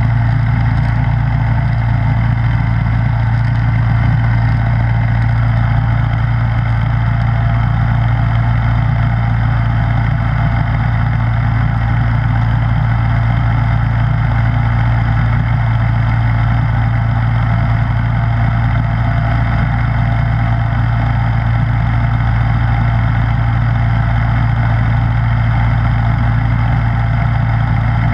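Snowblower's gasoline engine running steadily at an even speed, a constant low hum with no changes in pitch.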